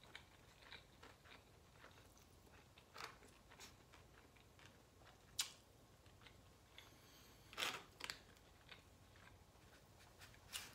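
Faint chewing and mouth sounds of someone eating, with a few short clicks and scrapes of a plastic fork in a foam takeout container, the sharpest about five seconds in and a small cluster near eight seconds.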